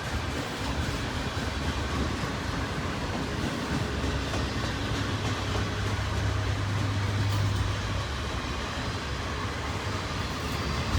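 Union Pacific double-stack intermodal train rolling past on the main line: a steady rumble and rattle of steel wheels on rail, with a low hum that strengthens for a few seconds in the middle.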